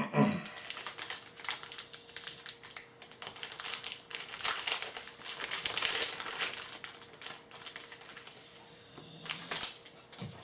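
Wrapper of a pack of 2013 Topps Magic trading cards crinkling and crackling as it is handled and opened, busiest in the middle.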